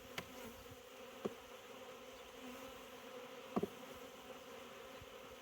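Honey bees humming steadily over an opened hive, a continuous buzzing drone, with three brief light clicks along the way.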